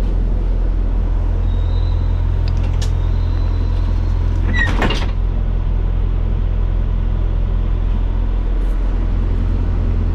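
Ashok Leyland bus engine idling steadily, a low even hum, with a brief metallic clatter about halfway through.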